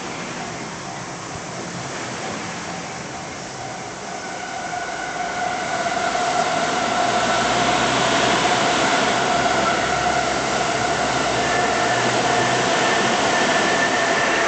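Train passing over a railway level crossing. Its noise builds from about four seconds in and then stays loud and steady.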